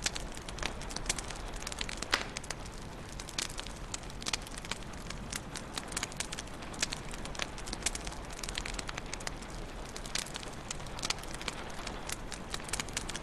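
Wood fire crackling in a fireplace: irregular sharp pops and snaps over a steady low rumble of burning, with one louder pop about two seconds in.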